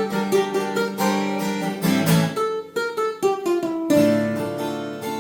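Acoustic guitar played as an instrumental: strummed chords, with a short run of single notes stepping downward in the middle, and no singing over it.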